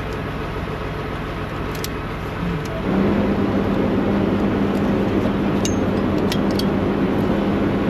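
Vehicle engine running steadily. About three seconds in it gets louder and a steady low hum comes in. A few light clicks are heard over it.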